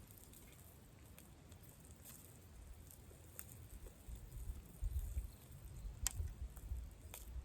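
Wood campfire crackling, with scattered faint clicks and two sharper pops near the end, over a low rumble that builds from about halfway.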